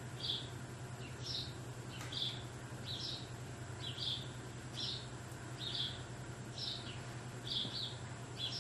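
A bird chirping over and over, one short high chirp about every second, over a steady low hum.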